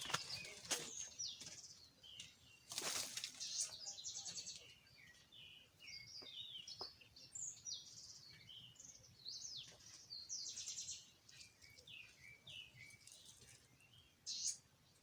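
Several small birds chirping and singing, with many short calls and quick rattling trills overlapping. A brief rush of noise about three seconds in.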